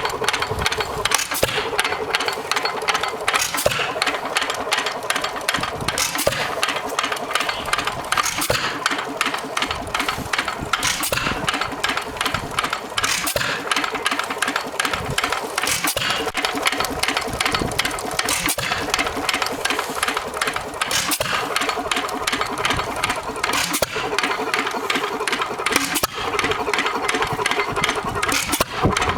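Emerson-Brantingham Type U 2.5 hp hit-and-miss petrol stationary engine running: a steady rapid clatter, with a louder bang every two to three seconds at uneven spacing.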